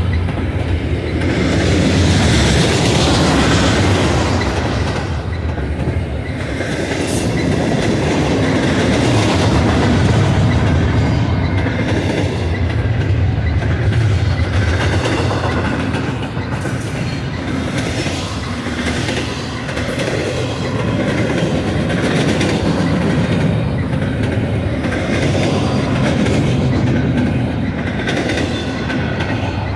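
Double-stack intermodal freight train rolling past at trackside: a loud, steady rumble of steel wheels on rail as the loaded well cars go by, swelling and easing a little from car to car.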